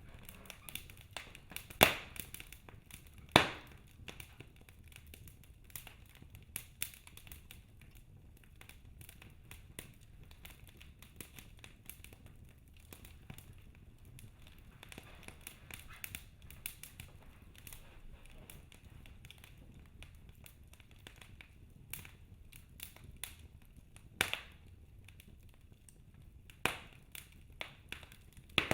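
Wood fire crackling in a fireplace: a steady scatter of small crackles with occasional sharp, louder pops, two of them about two and three and a half seconds in and several more near the end.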